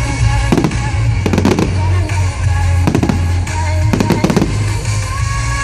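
Firework shells bursting in a string of sharp bangs, some in quick pairs, over loud music.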